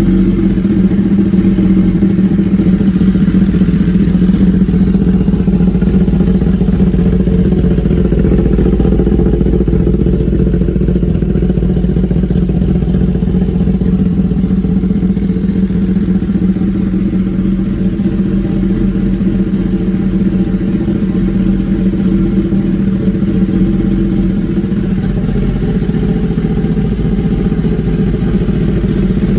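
2018 Kawasaki Ninja ZX10R's inline-four engine idling steadily through an SC Project S1 full titanium exhaust system, on its first startup with the new exhaust.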